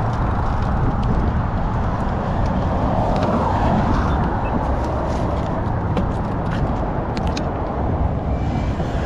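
Road traffic: motor vehicles passing by as a steady rumble, with one car swelling past about three to four seconds in. A few light ticks sound about six to seven seconds in.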